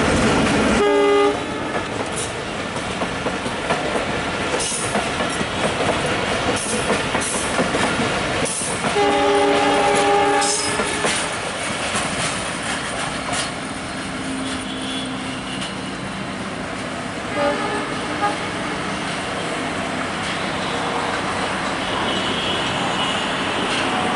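Diesel-hauled passenger train running past, its wheels clattering rapidly over the rail joints. The locomotive's air horn sounds briefly about a second in, gives a longer blast of nearly two seconds around nine seconds in, and a short toot later, as the train draws away and the clatter grows quieter.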